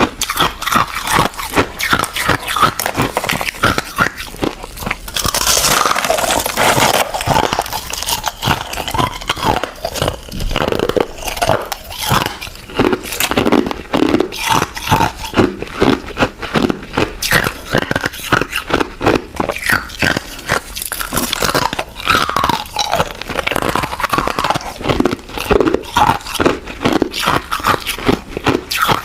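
Ice being bitten and chewed: dense, irregular crunching and crackling, with a rougher, hissier stretch about five to seven seconds in.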